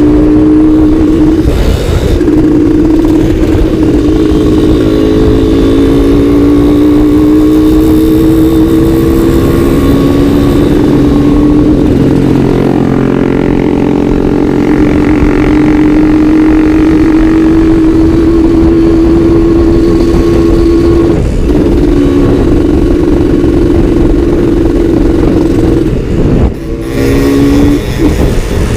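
Two-stroke Suzuki Satria motorcycle engine running under way, its note held and drifting slowly up and down with the throttle. The note briefly drops off about two seconds before the end, then picks up again.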